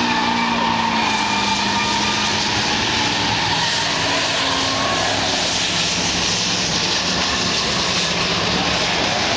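Several race car engines running around a track together, a steady, noisy mix of engine sound with no single car standing out.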